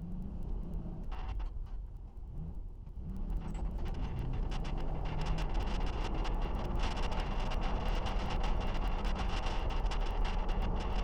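Road noise picked up by a GoPro riding on a moving trailer: a low rumble and rushing noise that builds about three seconds in, with many small rattles and knocks as the load bounces.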